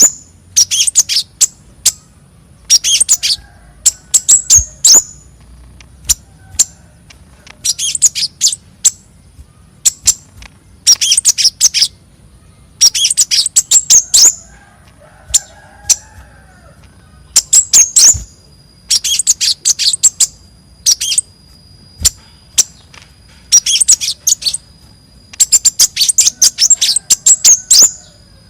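Konin, a small songbird, singing: short bursts of rapid, high-pitched chirps, a phrase every one to three seconds with brief pauses between.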